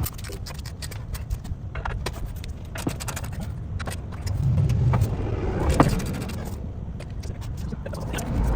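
Irregular metallic clicks, clinks and scrapes of hand tools and parts being handled, one sharper click near the middle, over a low rumble.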